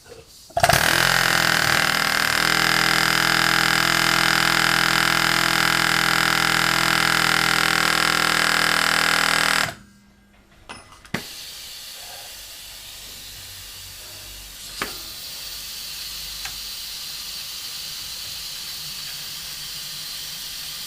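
Pneumatic air hammer running flat out for about nine seconds, a fast buzzing rattle with hissing exhaust air, as it hammers at a rear driveshaft seized in the hub; it stops abruptly, then a quieter steady hiss of air continues with a few light clicks.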